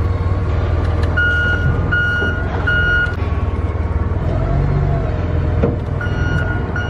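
A vehicle's reversing alarm beeping, about three beeps in two seconds, then stopping and starting again near the end, over a steady low engine rumble.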